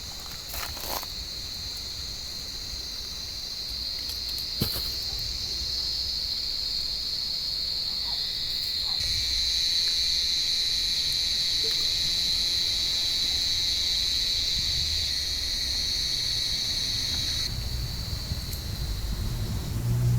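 Cicadas calling in a tree: a steady, high, continuous buzz that grows louder about nine seconds in and eases again near the end. A single sharp click sounds about four and a half seconds in.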